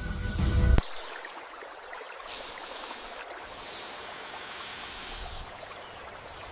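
A low rumble cuts off abruptly under a second in. Then comes snake hissing: a short hiss about two seconds in, and a longer, louder hiss about four seconds in.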